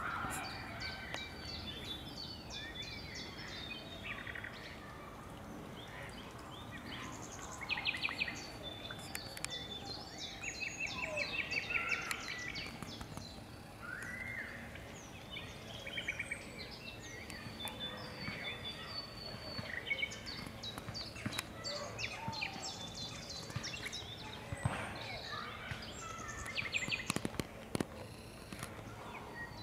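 Birds calling and singing: many short high chirps and several rapid trills from more than one bird, over a steady background hiss.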